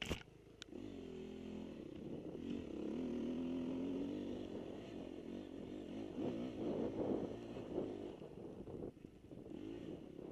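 Motocross dirt bike engine revving, its pitch rising and falling as the throttle is worked, with a sharp click right at the start.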